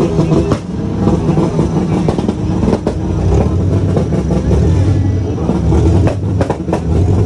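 A car engine running loudly with a deep, low-pitched sound, under crowd voices; a few sharp clicks about six seconds in.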